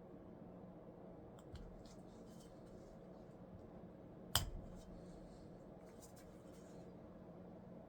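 Small hard objects being handled: faint light clicks and one sharp knock about four seconds in, over a steady low hum.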